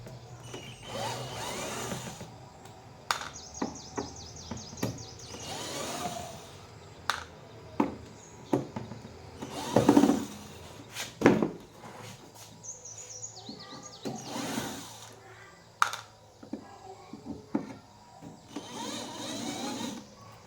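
Repair work on a speaker: scattered sharp clicks and knocks, and several bursts of a whirring small tool, each lasting a second or two.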